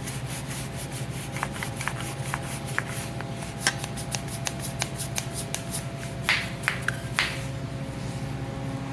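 Hand brush scrubbing degreaser-softened grease on a tractor's metal: a quick run of short scratchy strokes, a few louder ones a little past the middle.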